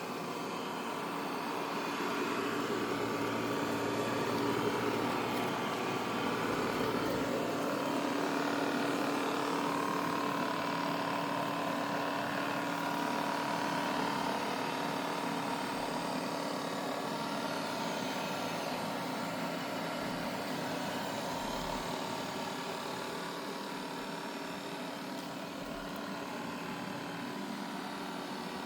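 Roborock robot vacuum running, a steady motor hum and whir that grows a little louder in the middle and fades slightly toward the end.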